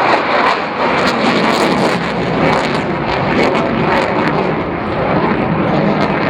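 Eurofighter Typhoon fighter jet with its twin Eurojet EJ200 turbofans, a loud, steady jet roar during its flying display.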